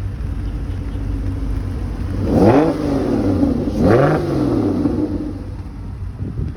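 A car engine idling, revved twice in quick blips: each rev climbs sharply in pitch and then falls back to idle.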